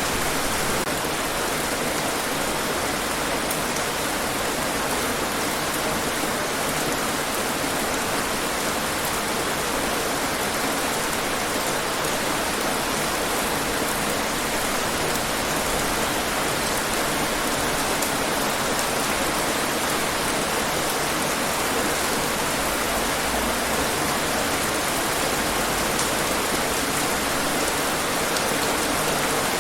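Steady rain falling: an even, unbroken hiss with faint scattered ticks of individual drops.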